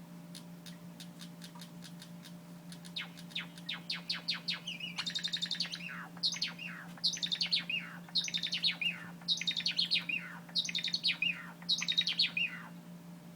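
White Java sparrow singing: soft clicking notes that quicken about three seconds in and build into a string of about seven repeated chirping phrases, each ending in a falling note.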